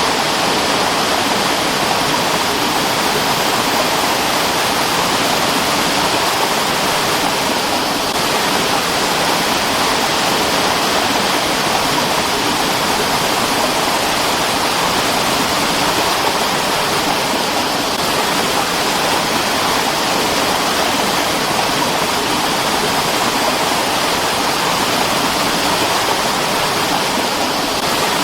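Mountain stream's water rushing in a steady, unbroken wash.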